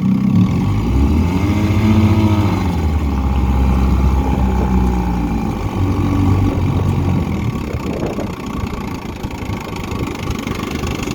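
1959 Evinrude Sportwin 10 hp two-cylinder two-stroke outboard running in reverse. It speeds up about a second in and holds there, eases off and briefly picks up again, then settles to a lower speed in the second half.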